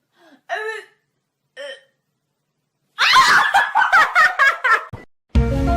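A person laughing: two short vocal sounds, then a long burst of rapid laughter about three seconds in. Music starts near the end.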